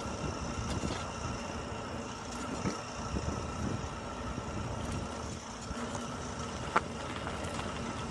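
Steady road and vehicle noise, a low rumble with a faint steady high hum, and one short sharp click about seven seconds in.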